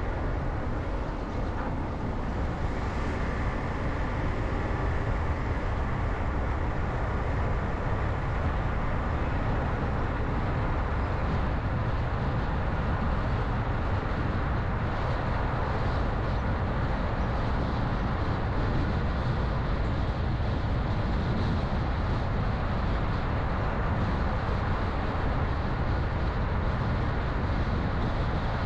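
A car on the move: steady road and engine noise, unbroken throughout.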